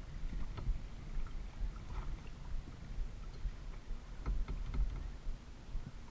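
Water splashing and lapping around a kayak: a few short splashes over a steady low rumble.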